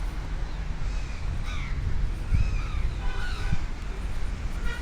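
Birds calling outdoors: a run of short, harsh, arched calls repeated every half second or so, over a steady low rumble.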